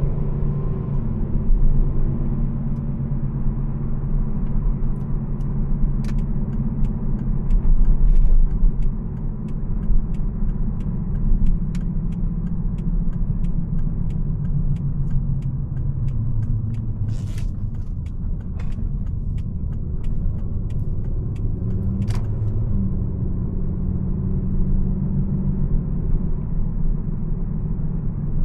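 2011 Volvo C70 T5's turbocharged 2.5-litre five-cylinder engine running while the car is driven, with steady road rumble and scattered faint ticks.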